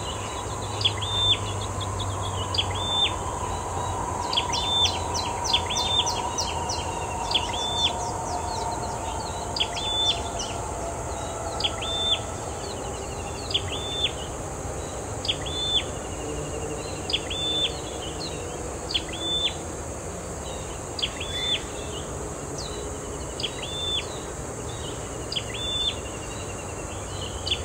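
A bird calling over and over, one short high note about every second or two, over a steady high insect hiss. A faint low hum slowly falls in pitch through the first half.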